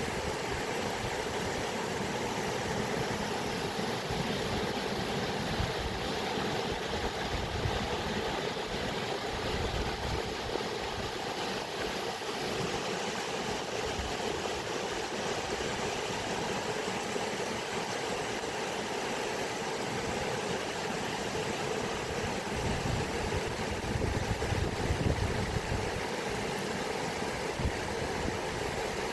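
Flowing water rushing steadily, with a low rumble underneath that swells for a few seconds near the end.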